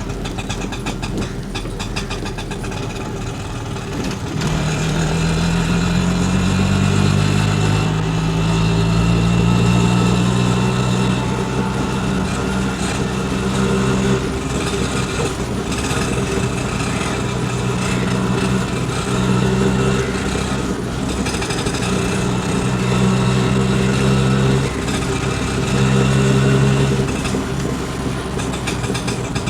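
Auto rickshaw engine running. About four seconds in, its pitch rises as it speeds up, then it runs on at a steady pitch, dropping out briefly several times.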